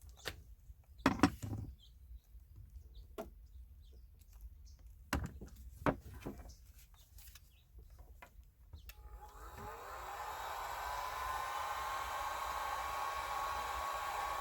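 A few handling knocks and clicks, then about nine and a half seconds in a handheld hot-air blower is switched on: its motor whine rises and settles into a steady whir with rushing air.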